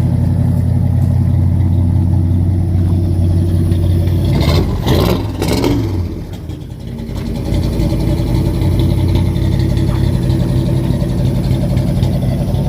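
Old Suburban's engine running rough after sitting for years, with a stumble about five seconds in where the sound breaks up and drops before it steadies again. It sounds to its owners like it may be missing on one side.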